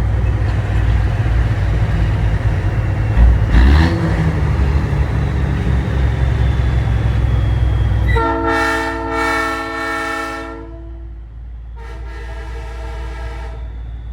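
Big rig's diesel engine running, with a brief thump about three and a half seconds in, then a Nathan Airchime P3 three-chime train horn sounds two long blasts, the first about two and a half seconds long and the second about a second and a half.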